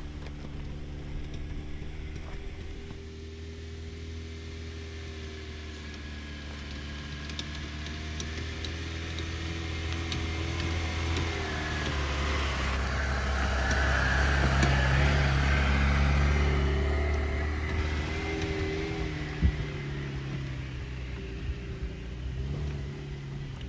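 Lada Niva 1.7's four-cylinder petrol engine pulling at low speed up a rocky dirt track, with tyres crunching and throwing gravel. It grows louder toward the middle as the car passes close, then fades, with a sharp knock of a stone a few seconds later.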